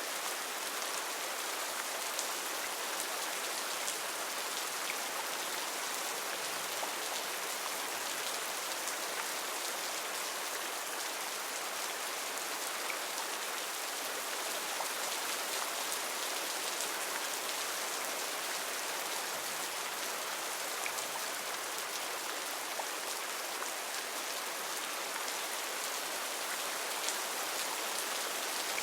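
Heavy rain falling steadily, a constant hiss of drops with fine scattered patters of individual drops.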